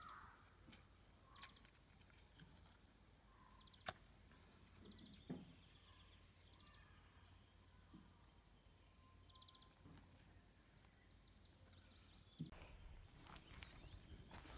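Near silence: faint outdoor ambience with a few distant bird chirps and trills and scattered faint clicks.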